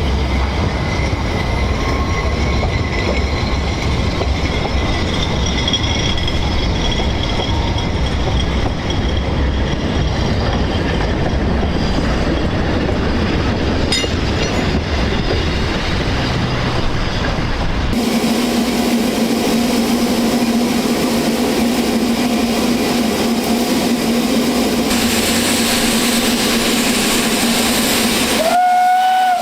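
Narrow-gauge steam train running, with a heavy low rumble. It cuts abruptly to a steady hum, and just before the end a steam whistle gives one short blast that rises and then holds.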